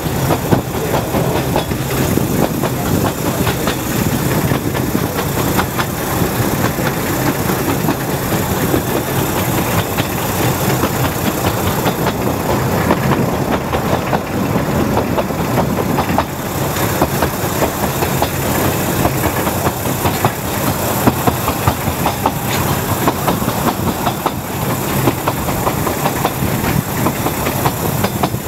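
Steady running noise of a narrow gauge steam train heard from one of its carriages, with many small clicks and clatters from the wheels on the track.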